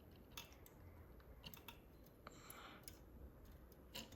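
Faint, scattered clicks and light taps of a die-cast model truck's small parts being handled, with a brief soft scrape about halfway through.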